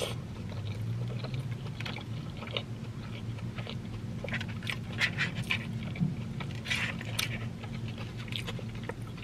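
Close-miked chewing and mouth sounds of a person eating loaded tater tots, with scattered short smacks and clicks and the scrape of a plastic fork in a paper food box. A steady low hum runs underneath.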